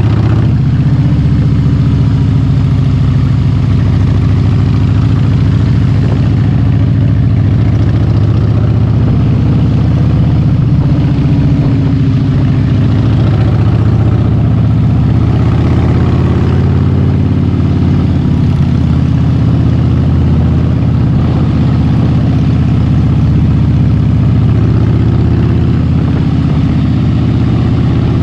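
Harley-Davidson V-twin motorcycle engine running steadily while riding, its note shifting slightly up and down with the throttle.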